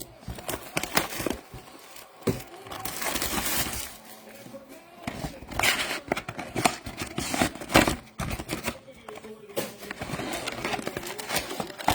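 Plastic shrink-wrap being torn and crinkled off a trading-card box, with crackling rustles and handling clicks. Faint voices from a baseball broadcast run underneath.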